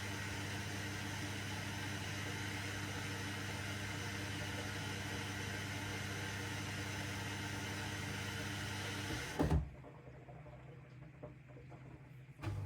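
AEG 8000 Series front-loading washing machine running with a steady hum and whoosh. About nine and a half seconds in there is a short low thump, the sound drops away for about three seconds, and the same hum comes back near the end.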